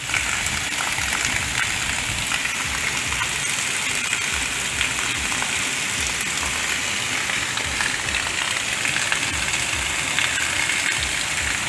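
Heavy rain pouring down steadily, with a stream of roof runoff splashing onto the ground.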